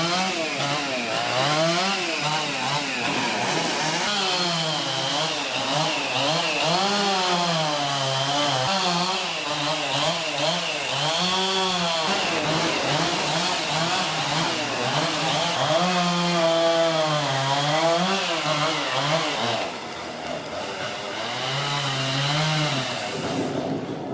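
Two-stroke chainsaw running, its engine pitch rising and falling again and again as it is revved. It dips briefly near the end, then picks up again.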